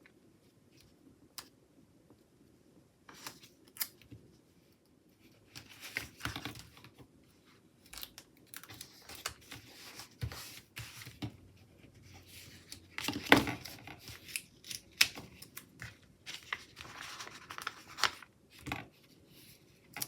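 Paper planner stickers being peeled from their sheet and pressed down by hand: scattered soft peeling, rustling and light taps, with one louder peel or rustle a little after halfway.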